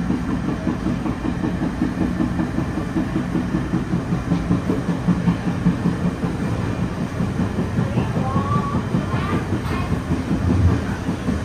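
Passenger train running along the line, heard from inside the carriage: a steady running rumble with a low hum.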